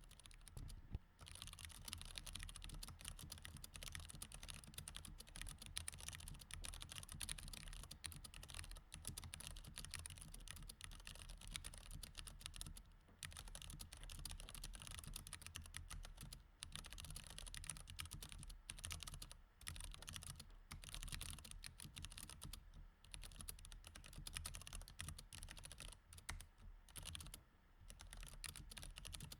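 Typing on a mechanical keyboard with Cherry MX Red switches: a dense, steady run of key clacks, broken by a few short pauses.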